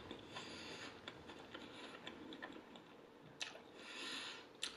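Faint close-miked chewing: small, soft, wet mouth clicks, with two soft breaths.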